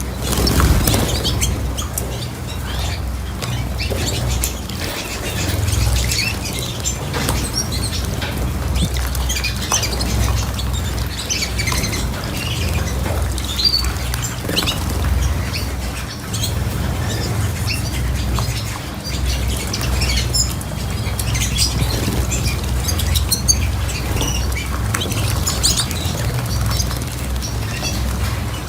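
Small cage birds chirping and giving short squawking calls, scattered throughout, over a steady low rumble.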